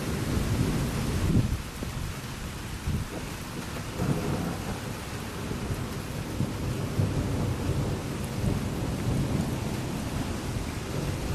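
Thunder rumbling during a rainstorm, over the steady hiss of falling rain. The rumble is loudest in the first second and a half and swells again about four seconds in.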